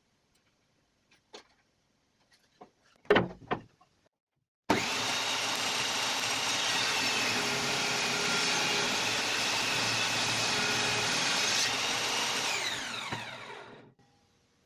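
Circular saw mounted under a homemade table saw, its trigger zip-tied on and powered through a power strip switch: it starts abruptly about five seconds in, runs with a steady whine for about eight seconds, then is switched off and winds down with a falling pitch. A few faint knocks come before it starts.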